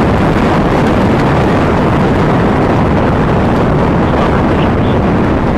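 Loud, steady rumble of the Delta IV Heavy rocket's three RS-68 engines during ascent, seconds after liftoff.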